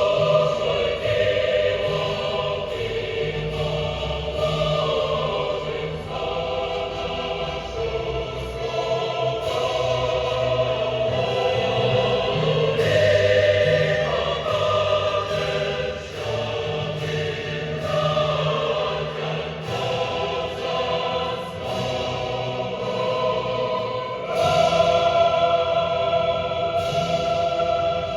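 Choral music: a choir singing sustained lines over instrumental accompaniment.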